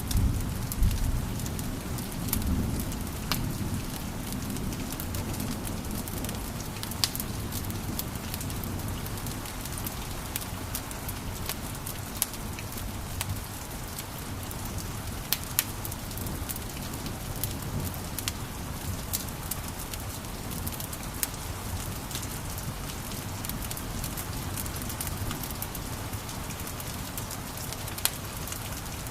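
Wood fire burning in a fireplace: a steady hiss of flames with sharp crackles and pops scattered irregularly throughout, and a louder low rumble of the flames in the first few seconds.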